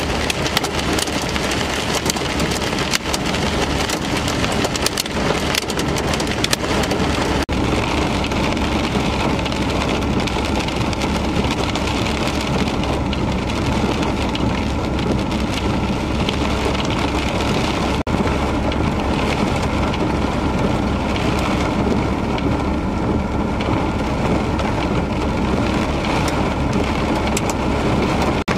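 Steady rain falling, with many small drop ticks that thin out after the first several seconds, over a low steady hum.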